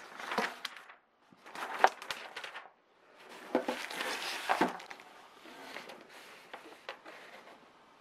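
Handling noises: rustling with light knocks and clicks in three short bursts, then fainter scattered ticks.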